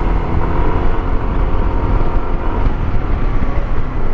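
Motorcycle running at road speed, with steady wind rumble on the microphone.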